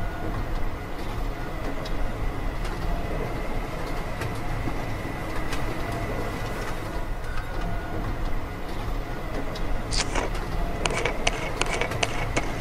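Small DC hobby motor running steadily, driving a miniature pumpjack model through a string belt, with a faint high whine over a low mechanical hum. About ten seconds in there is a run of sharp clicks.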